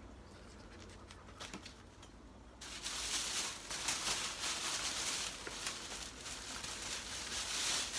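Plastic packaging crinkling and rustling as grocery items are handled, starting loudly about two and a half seconds in after a few light clicks.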